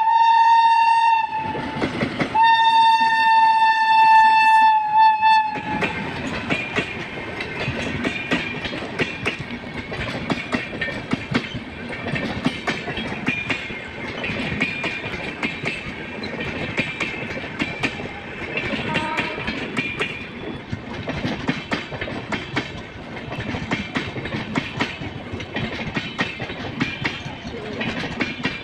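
Indian Railways electric locomotive sounding its horn as it passes: a short blast, then a longer one of about three seconds. Then comes the steady clickety-clack of the wheels of its long rake of passenger coaches as they rush by over the rail joints.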